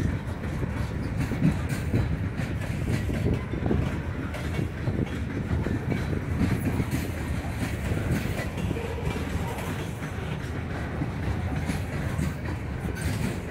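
Freight train cars rolling steadily past, a steady low rumble with the clatter of wheels over the track.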